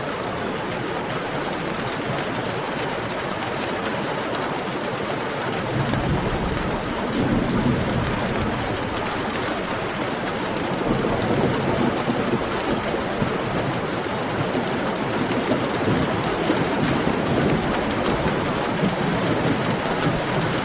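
Heavy rain falling steadily. A low rolling rumble of thunder comes in about six seconds in and swells and fades several times.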